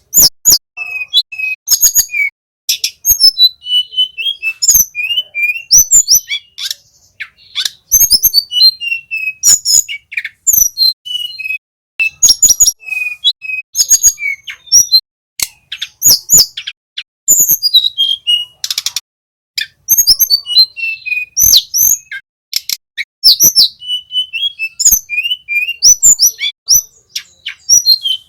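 Tledekan gunung singing a fast, near-continuous song of high chirps, quick falling whistled slurs and rapid clicking notes, with a few short pauses.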